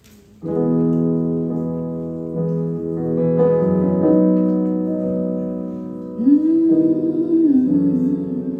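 Piano playing slow, sustained chords as the opening of a song, the chords changing every second or two. About six seconds in, a wavering sung note joins briefly.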